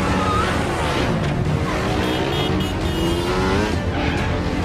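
Motorcycle engines revving in a chase, one engine note rising steadily for over a second near the middle, with tyre squeal, over an action film score.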